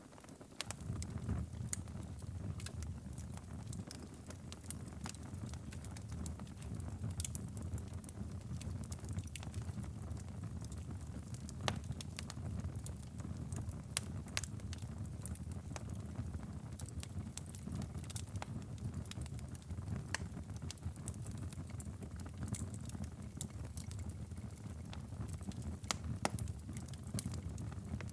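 Wood fire crackling, with scattered sharp pops and snaps over a low, steady rumble. It comes up within the first second and then holds even.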